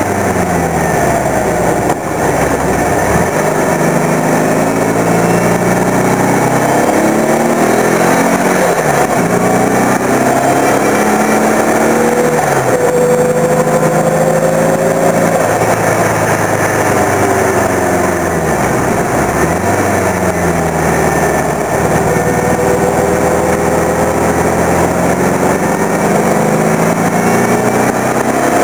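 Turbocharged VW Beetle engine at full throttle on a track lap, its pitch climbing under acceleration and falling back sharply several times with gear changes or lifting off for corners.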